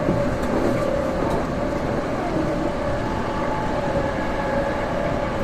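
Saitama Railway 2000 series electric train running at a steady speed, heard from inside the front car: a continuous rumble of wheels on the rails with a steady whine over it.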